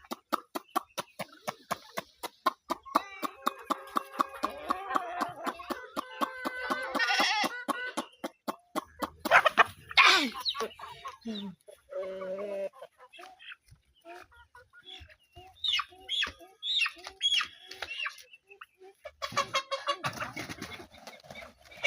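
Chickens clucking, with one loud call about ten seconds in and short high chirps later on. Over roughly the first half, a rapid, even knocking runs at about four strokes a second.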